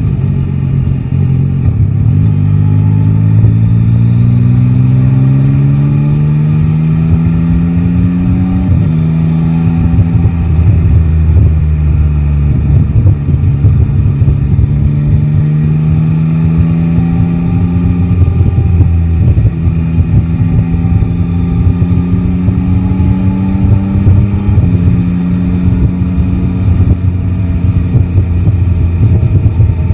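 Yamaha Tracer 9 GT's three-cylinder engine pulling steadily under light acceleration, its pitch climbing slowly and dropping at upshifts about nine seconds in and again later. Wind and road rumble run underneath.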